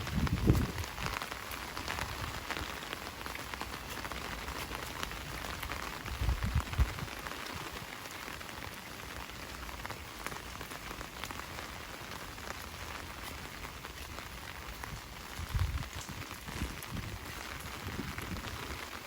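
Heavy rain falling steadily, a dense even hiss of drops, with a few short low rumbles or thumps about three times.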